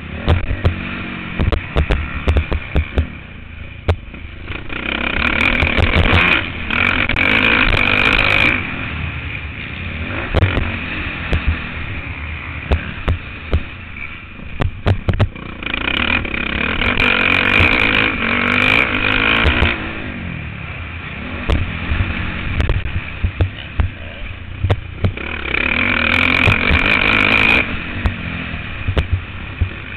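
Motocross bike engine heard on board. It opens up to high revs in three long pulls, about five seconds in, in the middle and near the end, and drops back between them. Under it runs a low rumble, with many sharp knocks and clatters from the bike going over the rough track.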